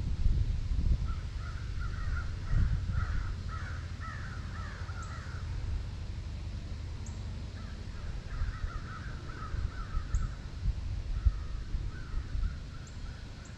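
A bird calling in three runs of quick, repeated harsh notes, over a steady low rumble.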